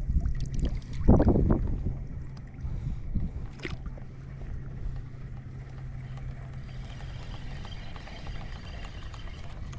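Wind and water noise aboard a small fishing boat, with a low steady hum that stops about two thirds of the way through. A brief voice sounds about a second in, and a single short click comes a little later.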